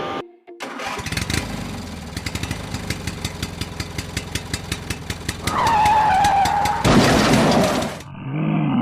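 Engine-like running sound: a rapid ticking that speeds up over several seconds, a brief whine, then a burst of hiss, cut off suddenly near the end.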